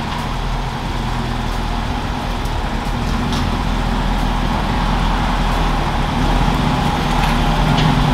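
2003 Mercedes G500's V8 running steadily while the vehicle is driven, with road noise, growing slowly louder.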